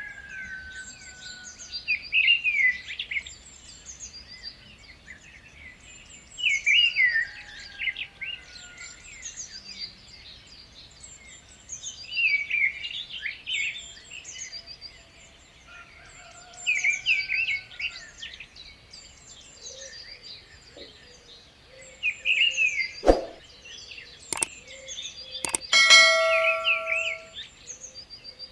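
Birds singing, with a loud chirping phrase about every five seconds over steady higher twittering. Near the end come a few sharp clicks and a short pitched tone.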